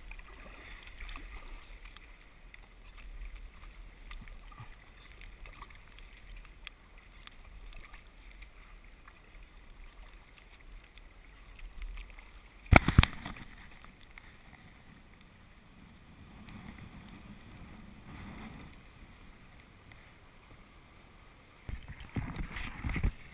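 Sea kayak out on the water: faint paddle strokes and water moving against the hull, with one loud sudden splash or knock about 13 s in and more splashing near the end.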